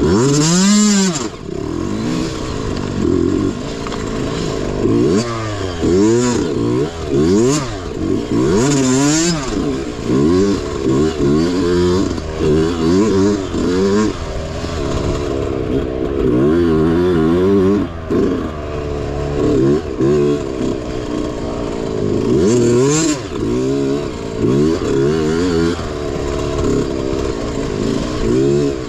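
Mini bike's small engine under race load, its pitch rising and falling over and over as the rider opens and closes the throttle, with rattling from the bike.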